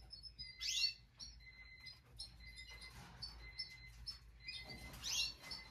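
Faint chirping and twittering of small birds, with two louder swooping calls, about half a second in and near the end.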